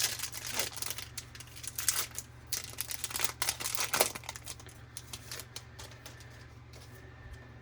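Foil wrapper of a baseball card pack crinkling and crackling as it is handled and torn open, dying away about five and a half seconds in.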